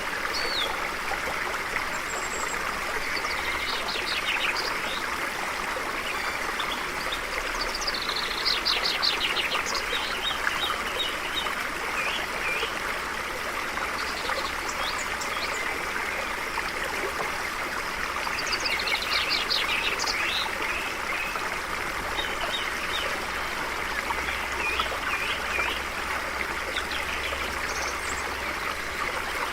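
A stream flowing steadily, with small birds chirping and trilling over it in several short spells.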